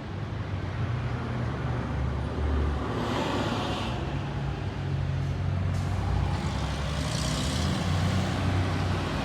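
Diesel engine of an Orion V transit bus running, with a steady low rumble. Two short hisses of air, about three seconds in and again about seven seconds in.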